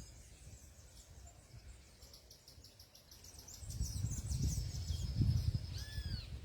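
Small birds chirping in a rapid series of high twittering notes, followed near the end by a few arched, whistled calls. From about halfway through, wind buffets the microphone with a loud low rumble.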